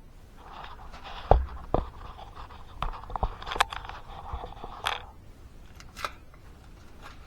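Handling noise: several light knocks and clicks over faint scraping, as things are picked up and moved about; the scraping stops about five seconds in.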